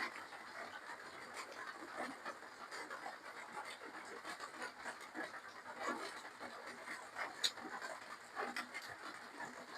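A person eating close to the microphone: irregular wet chewing and smacking with scattered small clicks, one sharper click about seven and a half seconds in.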